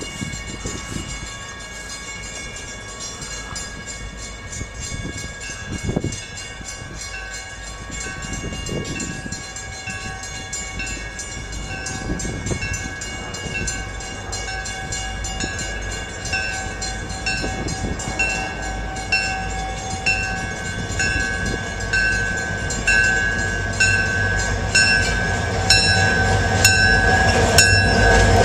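Freight train led by a Canadian Pacific SD40-2 diesel locomotive (EMD 16-cylinder two-stroke) approaching, its low engine rumble growing louder toward the end. Over it rings an evenly repeating bell-like chime, a bit more than once a second, typical of grade-crossing bells.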